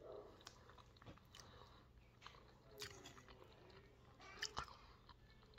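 Faint wet chewing and mouth clicks of someone eating chicken enchiladas, with a few sharper smacks about three seconds in and again around four and a half seconds.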